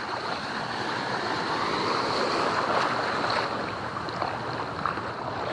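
Atlantic Ocean surf washing around a wader, a steady rush of water that swells a little in the middle.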